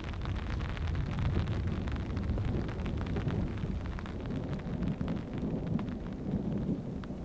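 Distant thunder rumbling on without a break, with scattered raindrops ticking over it.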